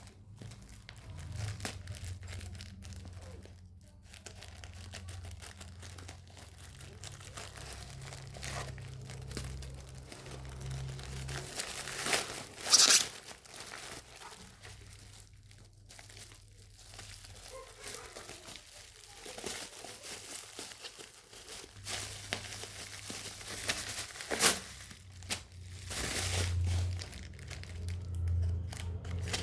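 Packaging being handled and torn open: continuous crinkling and rustling, with a sharp loud rip about 13 seconds in and another shorter one near 24 seconds.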